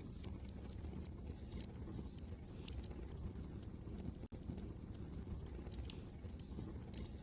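Wood fire crackling in a fireplace: irregular sharp snaps and pops over a steady low rumble, with a split-second dropout a little past the middle.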